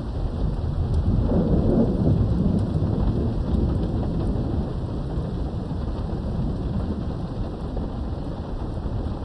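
Thunder rumbling over steady rain. The rumble swells about a second in and eases off over the next few seconds.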